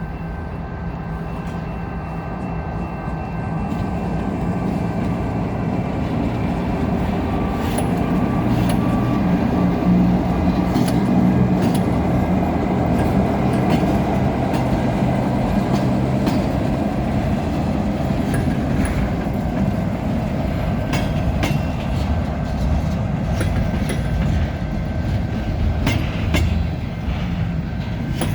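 Herzog rail maintenance train rolling past, a steady engine drone over wheel rumble. It builds to its loudest about ten to fourteen seconds in, with sharp clicks of wheels over rail joints through the second half.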